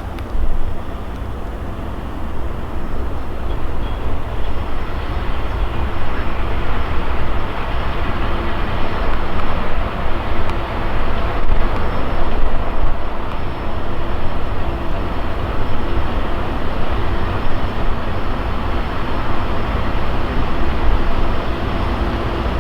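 Steam train under way: a steady, loud rumble and rush of the cars rolling along the track.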